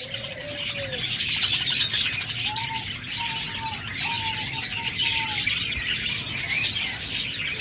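Many small cage birds chirping together. A lower, held call comes in the first second, and a run of short, even, lower-pitched notes sounds from about two to five seconds in.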